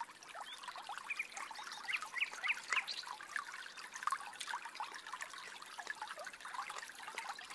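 Close wet mouth sounds of someone eating steamed chicken feet: irregular soft smacks, sucks and squelches as the skin and soft bones are chewed.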